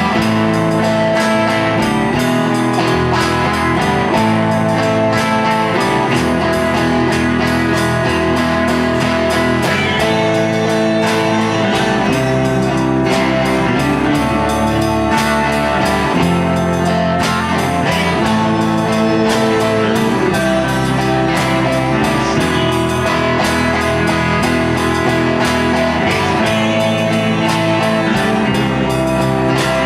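Live band music: an instrumental stretch of a rock/blues song led by guitar, with bass and a steady beat.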